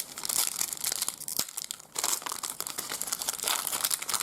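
Crinkling and rustling of a trading-card pack wrapper being handled and opened, with a brief lull about one and a half seconds in.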